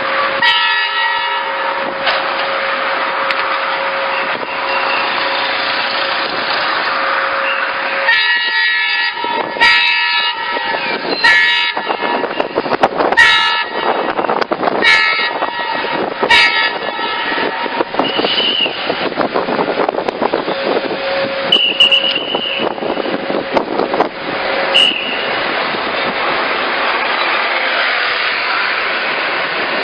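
Metre-gauge train sounding its horn in one long held blast, then a run of short toots over the noise of the train running.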